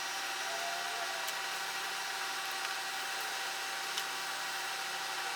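A steady machine hum holding an even pitch throughout, with a couple of faint ticks about one and four seconds in.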